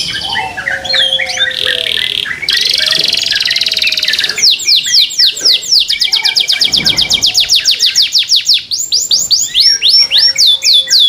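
Young domestic canary singing loudly: varied chirps and a buzzy trill, then long runs of rapid, repeated down-sweeping notes, several a second. Its owner calls its song not yet complete.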